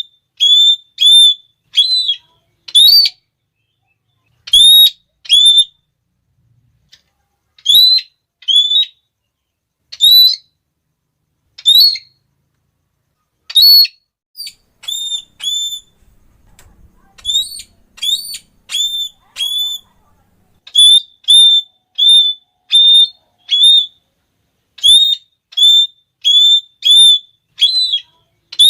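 Red-cheeked parrot calling: short, shrill 'klee' notes, given singly and in quick runs of two to four, with pauses of a second or more between runs.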